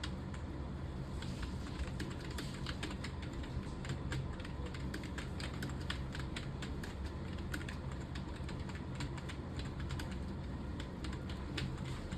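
Computer keyboard being typed on continuously at a fast, uneven pace of several key clicks a second, over a steady low hum.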